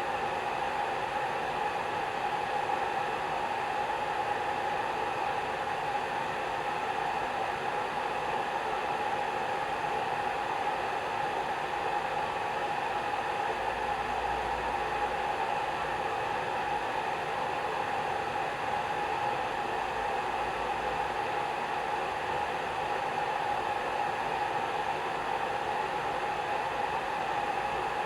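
Hair dryer running steadily: an unbroken rush of air with a mid-pitched hum.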